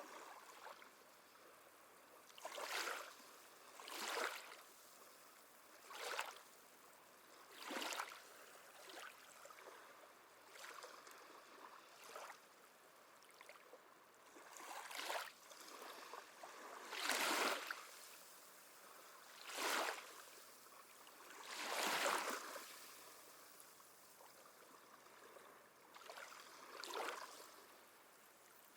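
Small sea waves lapping and washing on the shore, one gentle wash every two seconds or so, some louder than others, with no deep surf rumble.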